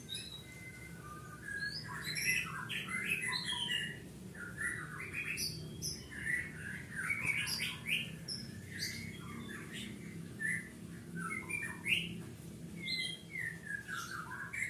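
White-rumped shama (long-tailed murai batu) singing a varied song of quick whistled notes, trills and pitch glides, with phrases following one another without a break.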